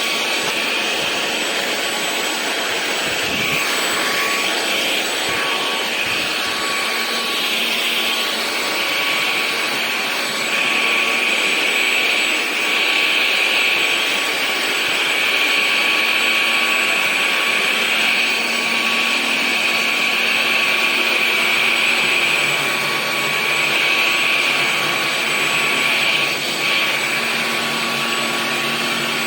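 Cordless stick vacuum cleaner running: a steady motor whine with airflow hiss, its level rising and falling slightly every few seconds.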